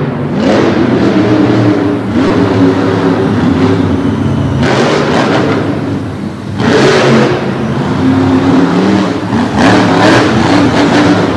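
Monster truck engine revving hard, its pitch rising and falling as the throttle is opened and closed, with loud surges of throttle about five, seven and ten seconds in.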